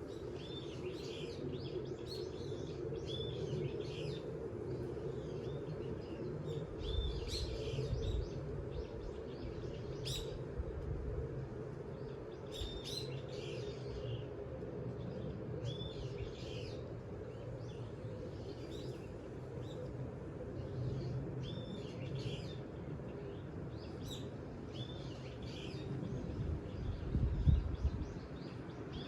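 Small birds chirping over and over, short repeated calls every second or two, over a steady low rush of wind. Wind gusts hit the microphone with a low rumble twice, about a quarter of the way in and again near the end, the second being the loudest.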